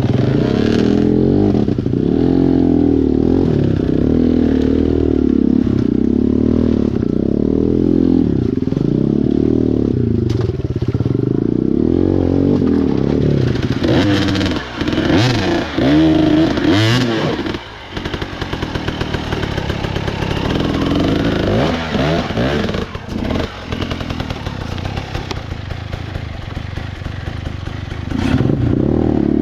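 Small dirt bike's engine revving up and down as it picks its way over river rocks, with clatter and scraping. About halfway through the engine drops back and knocks and a rougher noise take over. Near the end the engine comes back up loud.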